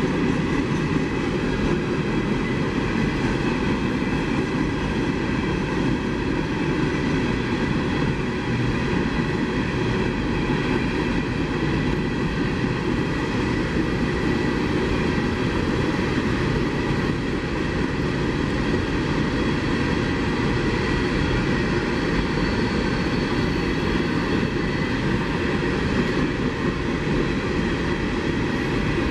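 CSX coal train rolling past, its wheels on the rails making a steady, unbroken noise.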